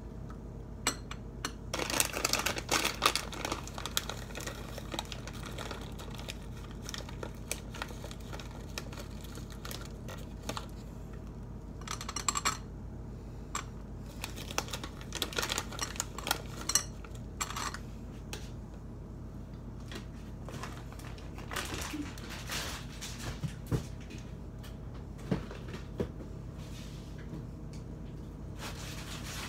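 Crinkling of a plastic bag of chocolate chips and scattered clinks and taps of a spoon and chips against a dish, in a few bursts, over a steady low hum.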